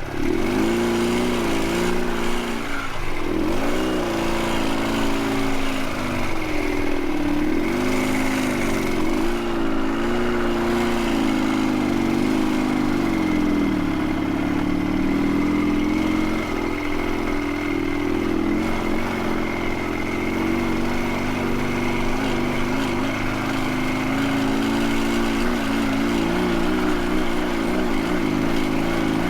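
Dnepr sidecar motorcycle's flat-twin engine running under heavy load on a steep climb, its revs repeatedly rising and dipping, then holding steadier from about halfway through.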